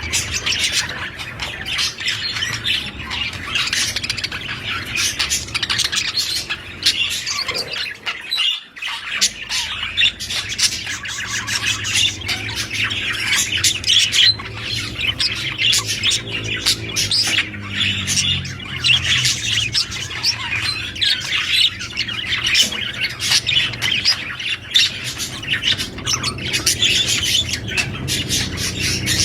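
Pet budgerigars chattering and squawking continuously in a dense stream of chirps, clicks and warbles, with a brief lull about eight seconds in.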